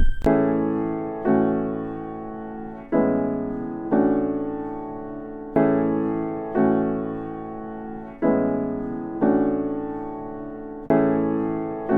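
Electric piano playing slow sustained chords, one struck about every second or so, each fading before the next. A short loud noisy burst cuts in at the very end.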